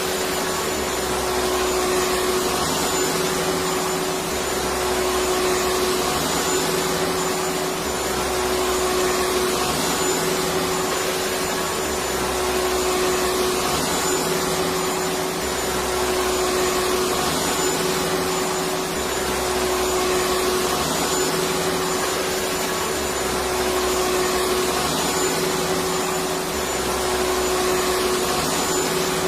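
Vacuum cleaner motor running steadily: a constant rushing hiss with a steady whine, and a faint low pulse repeating about every two seconds.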